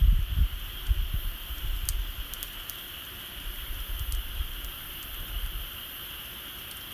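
Bonfire crackling with a few sharp pops over a steady high hiss, with wind buffeting the microphone in the first couple of seconds.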